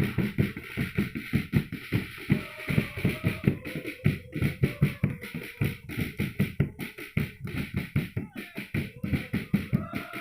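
Football supporters' drums beating a steady, fast rhythm, with the crowd singing a chant over them.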